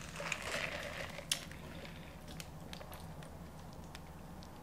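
Soft chewing and wet mouth sounds of someone eating a fast-food meal close to the microphone, with faint scattered clicks and one sharper click about a second in.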